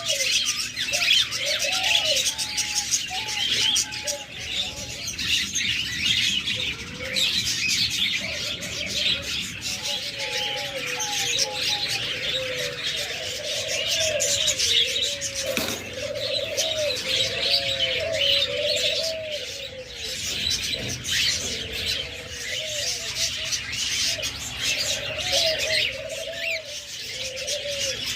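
Many caged doves cooing over and over, with the steady chatter of many small cage birds chirping behind them.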